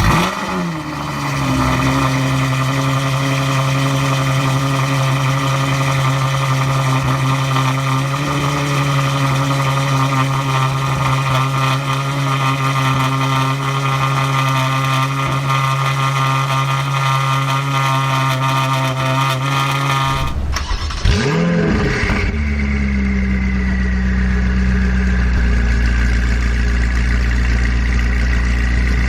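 Ferrari engine with a straight-pipe exhaust: a quick rev that falls back, then running at a steady raised speed for about twenty seconds. Near the end a sharp rev rises and drops, and the engine settles into a lower, deeper idle with a faint high whine.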